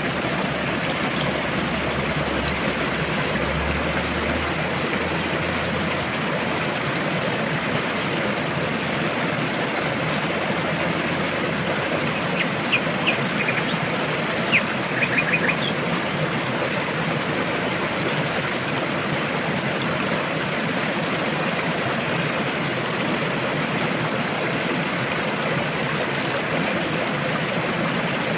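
Forest river rushing steadily, with a few short, high bird chirps about halfway through.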